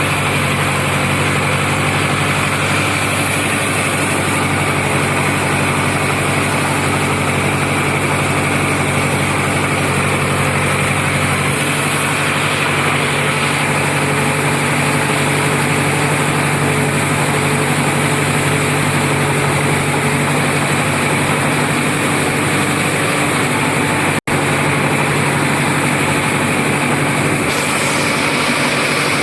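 Sonalika 750 tractor's diesel engine running steadily, with a small change in its note about a third of the way in. The sound cuts out for an instant about two-thirds through.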